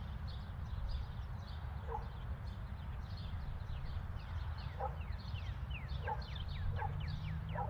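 Birds chirping in quick short falling notes, coming thicker toward the end, over a steady low rumble. A few short lower calls stand out about two, five, six and seven and a half seconds in.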